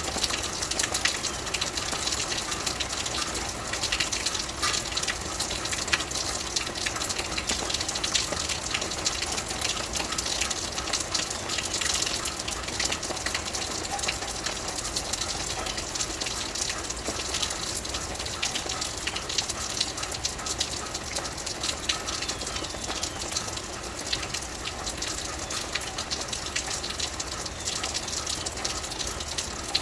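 Steady rain falling, a constant wash of noise dotted with many fine drop impacts.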